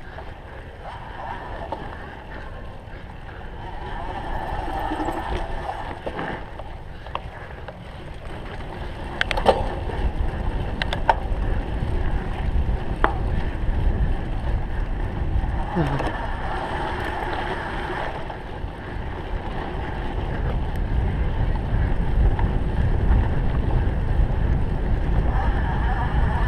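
Cyclocross bike being ridden fast off-road: wind rushing over the microphone and tyres rumbling over rough ground, getting louder about a third of the way in, with a few sharp clicks and knocks from the bike.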